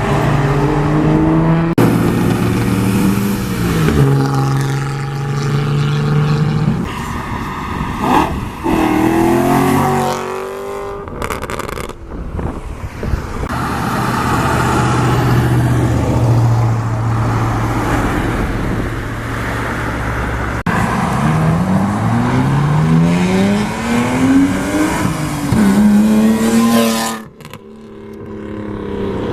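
Sports car engines revving and accelerating, the pitch climbing and falling, in several separate passes with sudden breaks between them.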